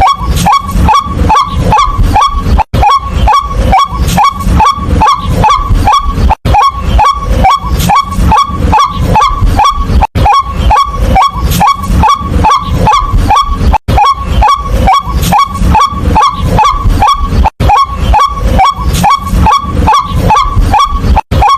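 White-breasted waterhen calling: a loud, harsh run of repeated 'kwak' notes, about four a second, each dropping slightly in pitch. The run breaks off for an instant about every four seconds and starts again.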